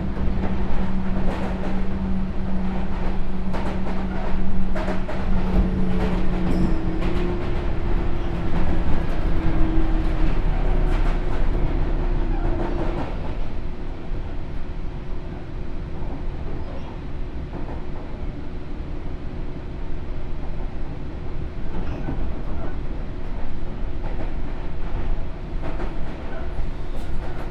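Sotetsu New 7000 series electric train heard from on board, running with wheel clicks over the rail joints. The Hitachi GTO inverter and traction motors give steady tones that step in pitch during the first half. The car then runs more quietly, with one steady tone left.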